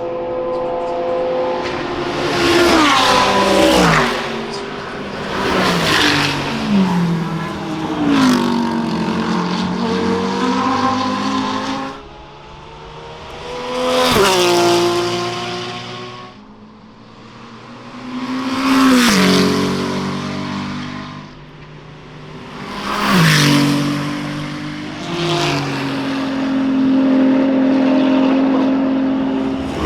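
GT3 race cars passing at speed one after another, about six in turn, each engine note loud as it goes by and falling in pitch as it pulls away. Near the end an engine holds a steadier note.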